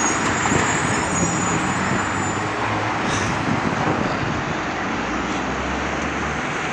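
Road traffic at a busy city intersection: cars and buses passing in a steady roar, with a faint high squeal in the first couple of seconds and a low engine drone about five seconds in.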